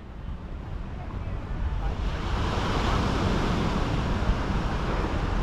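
Sea surf rushing, building over the first two seconds and then holding steady, with wind rumbling on the microphone.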